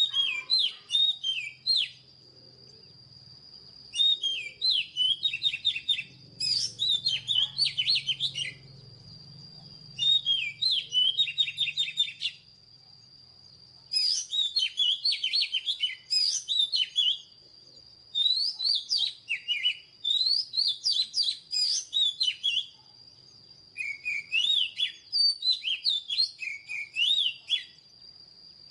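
Oriental magpie-robin singing: phrases of quick, varied whistled notes lasting a couple of seconds each, repeated with short pauses between. A faint steady high-pitched whine runs underneath.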